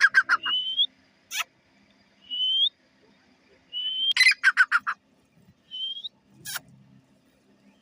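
A teetar (francolin) calling. It gives short whistled notes that rise in pitch, and twice a whistle runs straight into a quick series of loud, harsh notes. There are a couple of sharp clicks between the calls.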